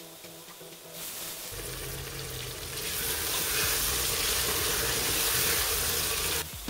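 Food sizzling as it fries in a pan of hot oil; the sizzle starts about a second in, grows louder, and cuts off suddenly just before the end.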